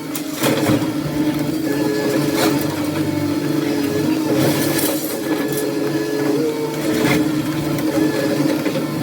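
Heavy demolition machine's engine and hydraulics running steadily, with a hum and a held whine, and a handful of sharp knocks and clatters of debris spread through the few seconds.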